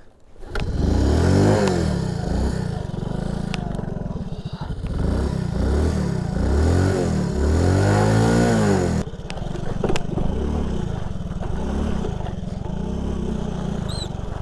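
Honda C90 step-through's small single-cylinder four-stroke engine under way. Its pitch climbs and drops again and again as it revs up and shifts through the gears, with a clear drop about nine seconds in.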